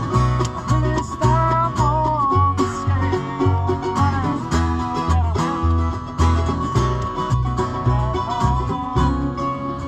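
Acoustic bluegrass jam: banjo picking over strummed guitar, with a bass walking about two notes a second.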